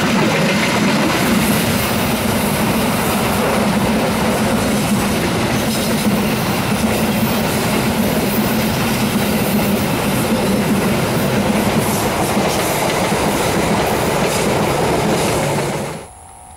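Passenger train coaches passing close by: a steady, loud rumble of steel wheels running on the rails. It cuts off abruptly near the end.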